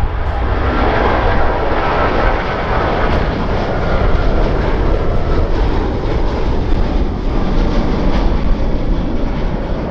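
Jet airliner's engines passing close: a loud, steady rumble with a faint whine, strongest about a second or two in.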